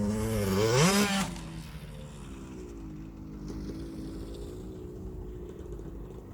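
KTM 65 SX two-stroke motocross bike engine running, revving up sharply about a second in, then dropping to a quieter, wavering engine note.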